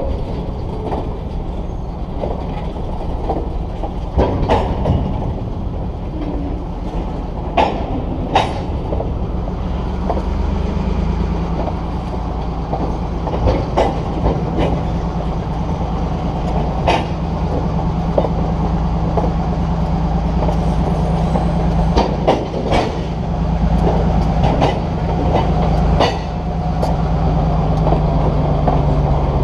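Freight cars rolling slowly past, their wheels clicking and knocking over the rail joints. About a third of the way in, the steady drone of the shoving EMD GP15-2 diesel locomotive comes in and builds as it approaches.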